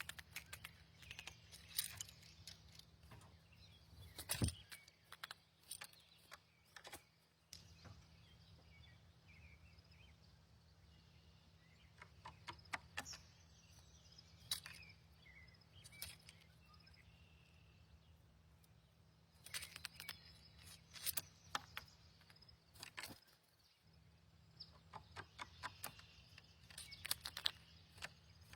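Faint outdoor sound of small birds: scattered sharp clicks and taps in irregular clusters, a few faint chirps, and a low steady hum underneath.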